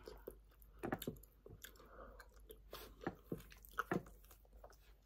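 Close-miked chewing of soft pounded yam and spinach sauce, with irregular wet mouth smacks and clicks.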